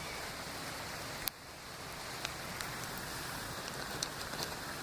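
Steady rain falling, with a sharp click about a second in and a few light ticks later on.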